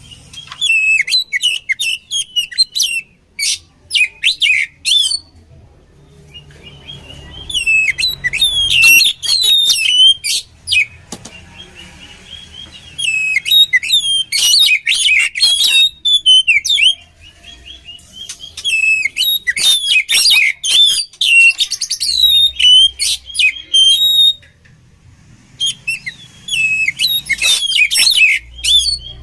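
Oriental magpie-robin (kacer) singing: loud bursts of varied whistled phrases and rapid trills, broken by short pauses, about five bouts in all.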